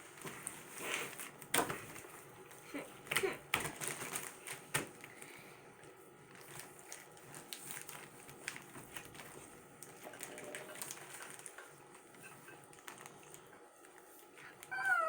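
Slime being squeezed and handled by hand: scattered clicks and crackles, busiest in the first five seconds and sparser after.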